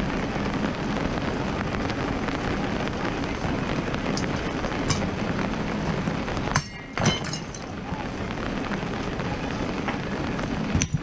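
Steady rain hiss, with a couple of sharp knocks midway. Near the end, a bat smashes a plate on a wooden stool with a sharp crack.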